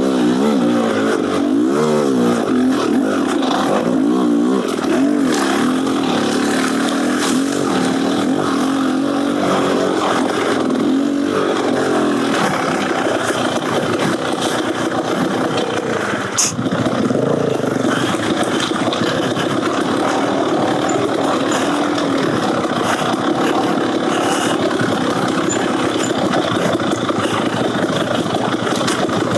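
Beta Xtrainer 300 single-cylinder two-stroke engine, breathing through an FMF Gnarly exhaust, revving up and down repeatedly for the first dozen seconds as the bike is ridden, then running at a steadier pitch. A single sharp knock comes about halfway through.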